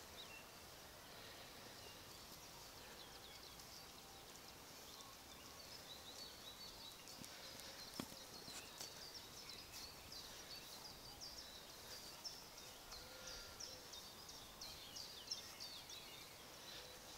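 Faint birdsong: many quick, high chirps and trills from small birds, getting busier in the second half. A single sharp click sounds about eight seconds in.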